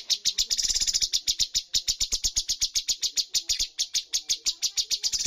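Cucak cungkok singing a fast, unbroken run of sharp high chirps, about ten a second, with a denser trill about a second in.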